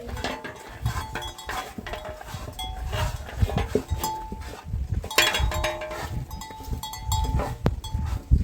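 Bells on livestock clinking and ringing over and over as the animals move about, over a low rumble.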